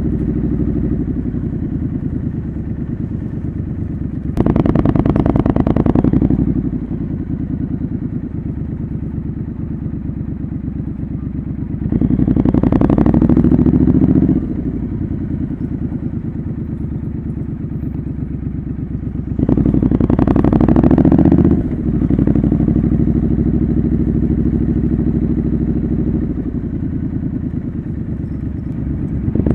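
Triumph Scrambler 900's parallel-twin engine through a homemade exhaust while riding: a steady cruising note, broken three times by a couple of seconds of opening the throttle, where the note rises and gets louder before easing back.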